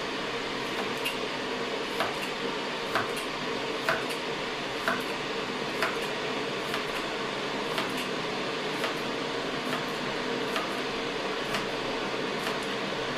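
A knife cutting down onto a cutting board with a short sharp tap about once a second, slicing a vegetable piece by piece, over the steady whir of a kitchen fan.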